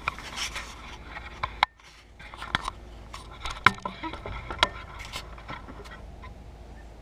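Hands working on a riding lawn mower: scattered clicks, knocks and scrapes as parts are handled, broken by a short silent gap about a second and a half in.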